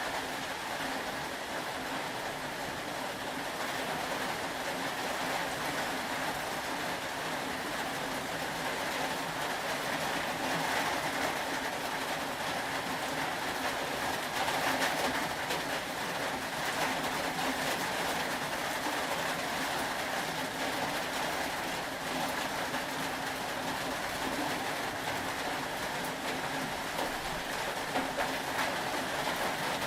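Steady rain, an even hiss that goes on without breaks, with a faint low hum beneath it.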